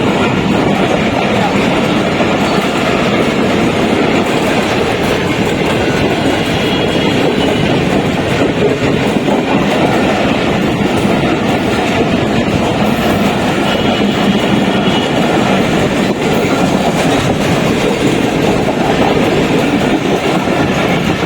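Passenger train running, a steady loud rumble with the clatter of wheels over the rails and a faint high squeal twice.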